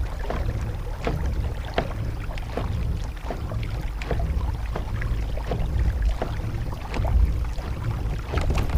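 Water lapping and splashing against a kayak's hull while trolling, in short irregular splashes over a steady low rumble.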